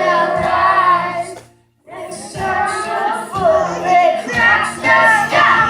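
A children's choir singing a worship song over backing music. The sound drops out to silence for a moment about a second and a half in, then the singing resumes.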